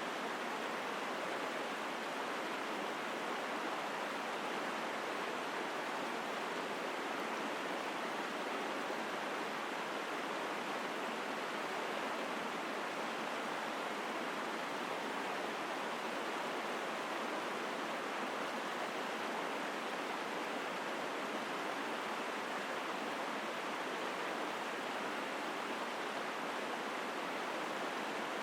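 A mountain stream flowing strongly through a forest: a steady, unbroken rush of water that holds the same level throughout.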